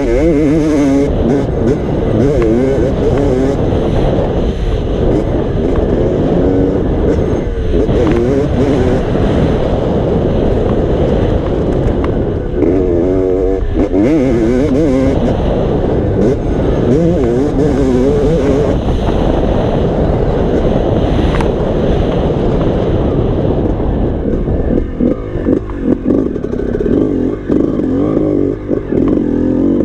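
Motocross bike engine running as it is ridden, its pitch rising and falling again and again with the throttle over a steady low rumble. The sound turns choppier in the last few seconds.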